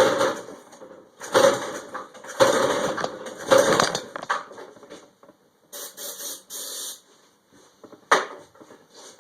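8 hp small engine being pull-started by its recoil rope, four pulls about a second apart, cranking over without catching on starting fluid. A few short hisses of the starting-fluid spray follow, then a single click.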